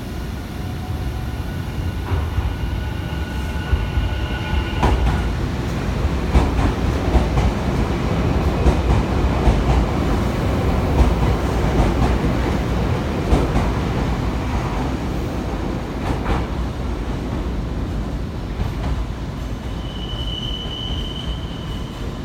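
Nankai electric train running slowly, wheels clattering over rail joints and points and louder in the middle. Steady high tones fade out in the first few seconds, and a thin high wheel squeal comes near the end.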